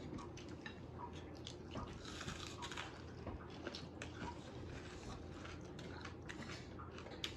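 Close-up eating sounds: someone chewing and biting food, with many small crunches and clicks.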